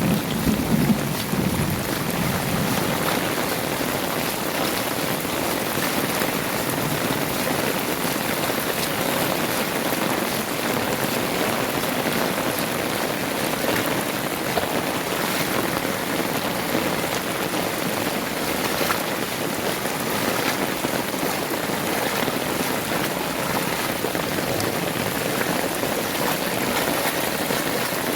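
Heavy rain falling and splashing in a steady hiss, with the low rumble of a thunderclap dying away in the first couple of seconds.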